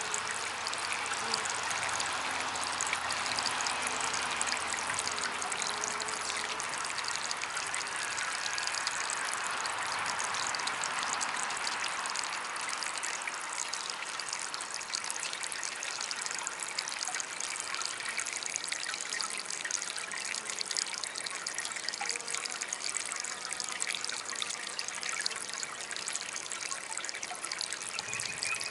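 Small DIY water fountain trickling steadily.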